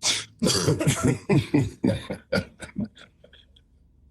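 A person's voice: a sharp cough-like burst, then a quick run of short voiced sounds that grow shorter and fade out after about three seconds.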